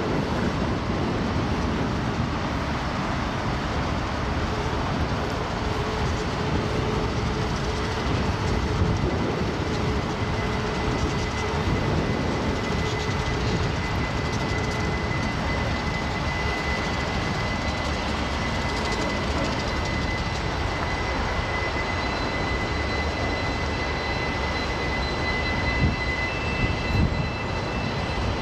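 Freight train cars rolling past with a steady rumble and clatter; from about halfway through a high steady squeal, like wheel flange squeal, rises over it and gains a second, higher tone near the end.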